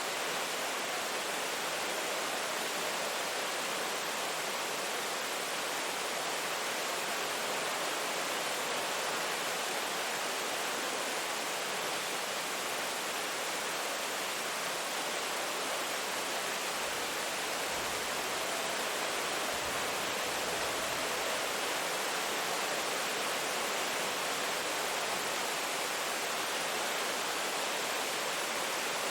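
Steady rain, an even hiss with no single drops or gusts standing out.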